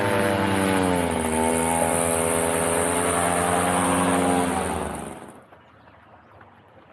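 An engine running, with a steady pitched hum; its pitch drops about a second in, then holds until the sound dies away quickly about five seconds in.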